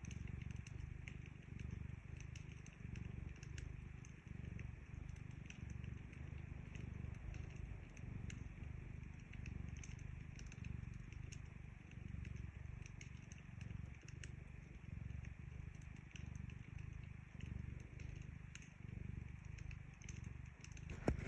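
A domestic cat purring close to the microphone, a low rumble that swells and fades with each breath, while a wood fire crackles with small scattered pops. A sharper pop comes near the end.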